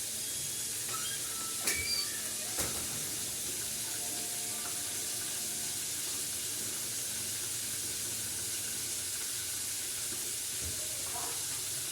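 Chicken frying in hot oil, a steady sizzle, with a couple of sharp clicks about two seconds in.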